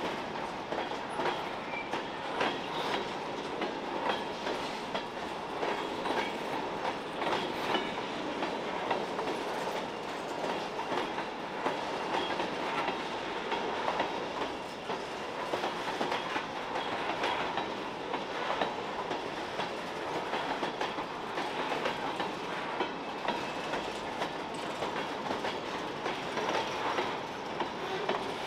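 Covered hopper cars of a long freight train rolling slowly past, their steel wheels clicking and knocking over the rail joints with the track creaking under them.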